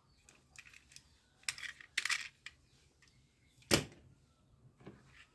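Small hard plastic toys being handled: scattered light clicks and rattles, then one sharp knock a little past the middle and a fainter tap near the end.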